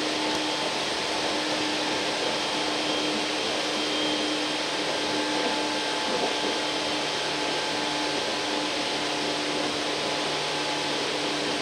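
Steady running noise inside a Tokyu 8500 series commuter train car moving at a constant speed: wheels on the rails and a continuous hum with a few faint, unchanging tones.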